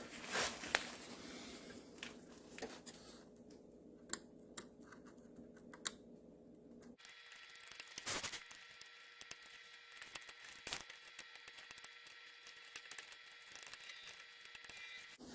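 Faint, scattered small clicks and scrapes of a metal dental pick picking at the corroded terminal holes of a plastic relay socket.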